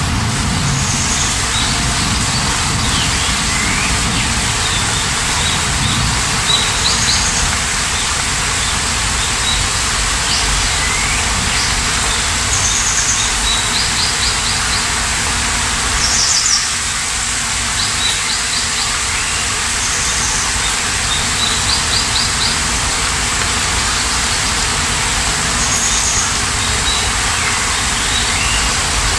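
Steady rain falling, with small birds calling over it in short chirps and quick trills every second or two.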